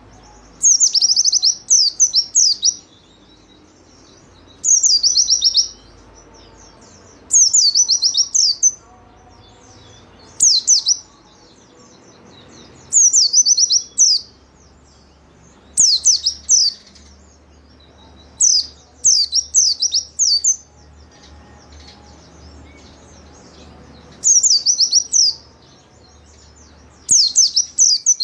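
A white-eye (pleci) singing in short bursts of fast, high, down-slurred notes, a burst every two to three seconds, over faint low background noise.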